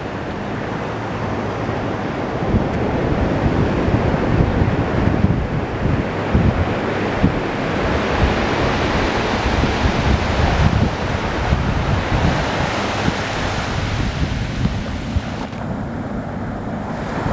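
Ocean surf washing in steadily, with wind buffeting the microphone in low rumbling gusts; the wash swells up through the middle and eases off near the end.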